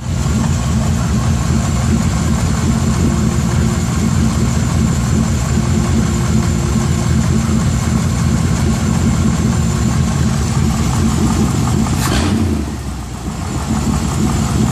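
Cammed and stroked 4.6-litre Rover V8 running steadily at idle on a four-barrel carburettor. About twelve seconds in there is a short sharp click, and the engine sound dips briefly before returning to its steady level.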